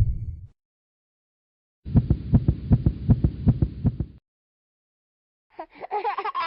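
Comedy sound effects: about two seconds of rapid low thumps, about five a second, then a short gap. Near the end a squeaky, warbling, voice-like effect begins.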